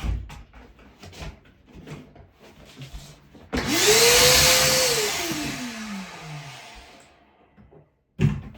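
An electric motor switched on briefly: it spins up fast about three and a half seconds in, runs with a loud hiss for about a second, then winds down over about two seconds after it is switched off. Light knocks of handling come before it.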